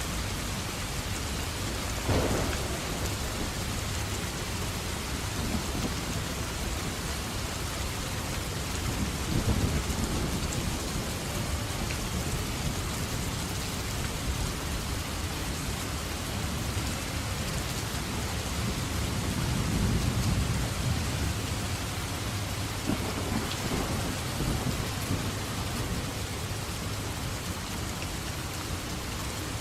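Steady heavy rain with thunder: a sharp crack about two seconds in, and low rolling rumbles around ten and twenty seconds in.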